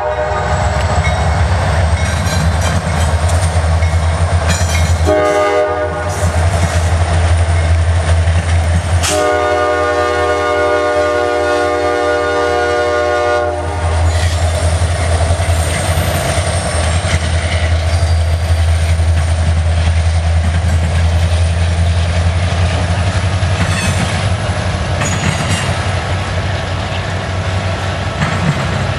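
Norfolk Southern diesel freight locomotive's multi-chime horn finishing its grade-crossing signal: a short blast about five seconds in, then a long blast from about nine seconds to about fourteen, over the steady heavy rumble of the locomotive engines. After that the freight cars roll past with the clatter of wheels on rail joints.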